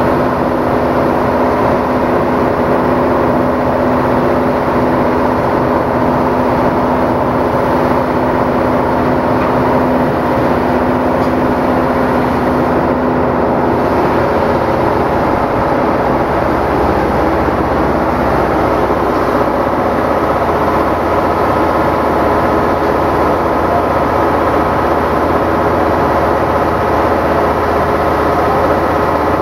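Engine-driven diamond concrete-cutting saw running loud and steady: several humming tones over a dense noise, with the low hum shifting about halfway through.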